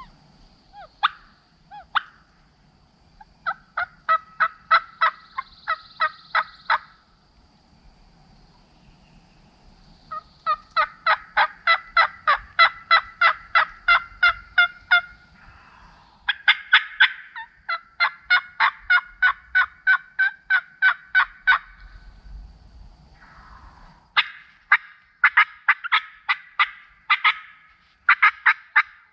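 Wild turkey yelping: long, evenly spaced series of sharp calls, about four a second, repeated in several runs of three to five seconds each.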